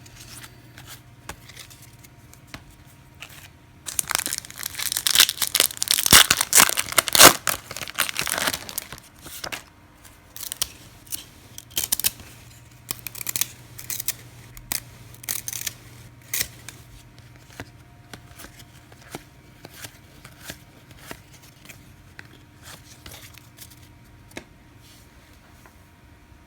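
A trading-card pack wrapper being torn open and crinkled, loudest from about four to nine seconds in. After that come lighter scattered clicks and rustles of the cards being handled.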